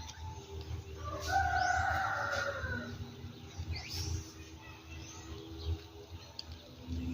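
Bird calling: a drawn-out call from about a second in, lasting nearly two seconds, with short arching chirps around it and another about four seconds in.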